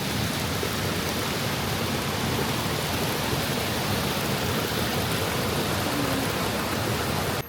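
Waterfall's falling water, a steady, dense rushing noise close to the microphone.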